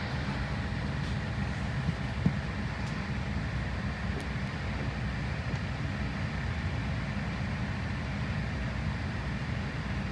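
Steady low hum and rushing air inside an airliner cabin on the ground before takeoff, from the ventilation and the aircraft's running power units. A single short click about two seconds in.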